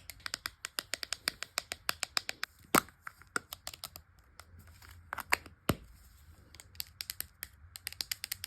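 Cosmetic packaging handled up close: a quick run of light taps and clicks, a few of them sharper and louder, with a stretch of soft crinkling and rustling in the middle.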